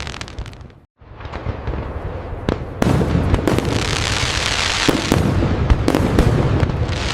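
Fireworks display: dense crackling with sharp bangs scattered through it. The sound fades out and stops completely for a moment just before a second in, then starts again.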